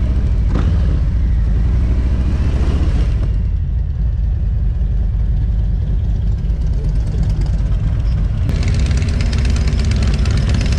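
Motorcycle engine running steadily, with a sudden rise in hiss about eight and a half seconds in.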